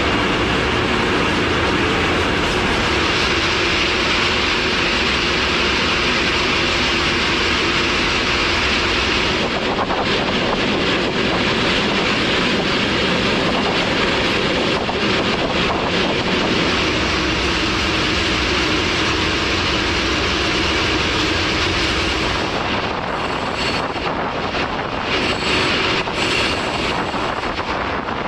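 Moving freight train heard from on top of a wagon: a steady, loud rush of wheels on rails and wind going past. The sound gets slightly unsteady in the last few seconds.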